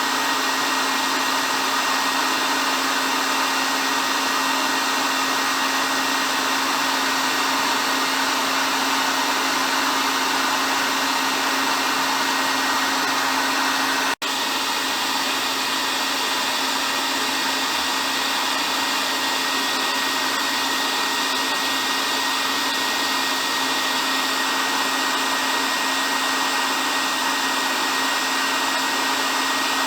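Hair dryer running continuously: a steady, even rush of air over a constant motor hum with a thin high whine. About halfway through, the sound drops out for a split second and resumes unchanged.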